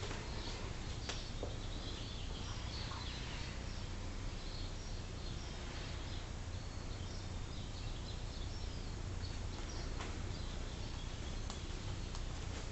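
Birds chirping faintly over a steady low hum, with a few soft clicks, near one and ten seconds in and again toward the end.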